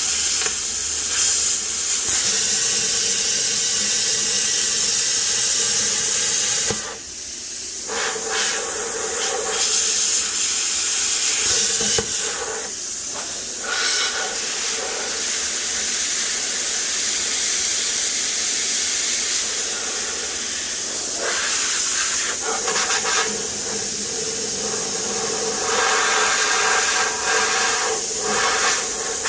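Plasma cutter cutting through a powder-coated oil pan, a loud steady hiss of the air-fed arc with a faint steady tone under it. It breaks off briefly about seven seconds in, then carries on.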